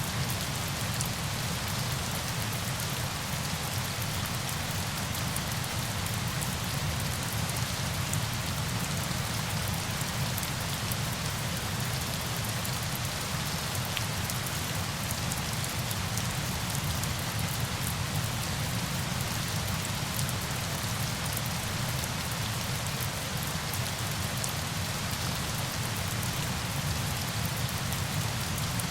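Steady, unbroken rush of falling water with a fine patter of drops, used as a sleep ambience.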